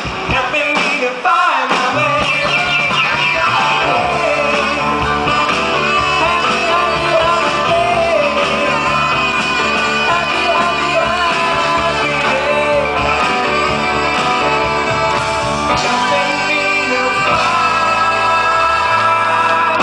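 Live stage performance: voices singing over a band with guitar and a steady bass line.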